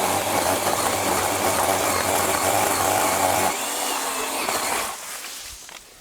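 Small petrol-engined power tool, a chainsaw or brush cutter, running at speed while clearing underbrush. It cuts off about three and a half seconds in.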